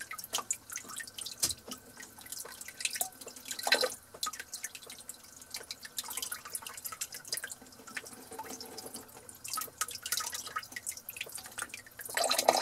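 Water splashing and dripping in a kitchen sink as raw chicken legs are rinsed under the tap, in irregular spatters, with louder splashes about four seconds in and near the end.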